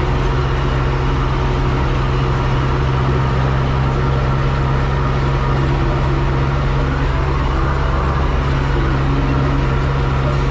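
Tractor diesel engine running at a steady speed, a constant hum that does not rise or fall.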